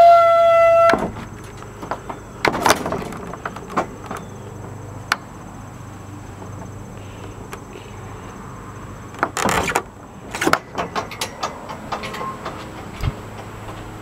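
A power drill runs with a steady whine that cuts off about a second in. Scattered knocks and clicks follow, with a short rattle near the middle, as the tool and fence hardware are handled.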